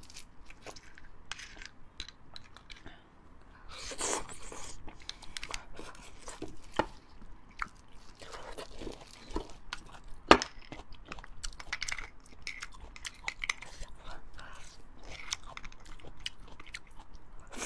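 Close-miked chewing of beef bone marrow and fatty meat: irregular wet smacks and small clicks, with a sharp click a little past halfway as the loudest sound.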